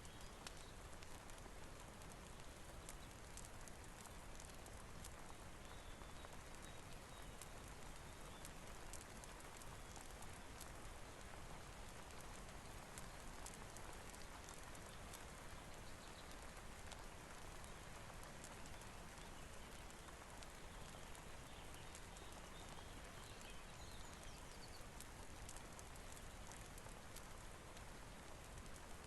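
Steady, soft rain falling evenly, with many faint scattered ticks and crackles over it.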